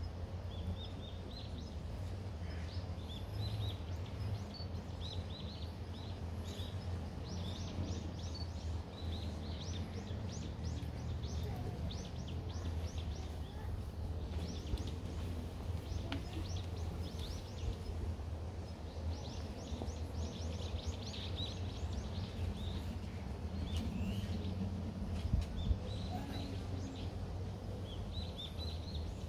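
Small birds chirping in quick, high, repeated series that come and go, over a steady low background rumble.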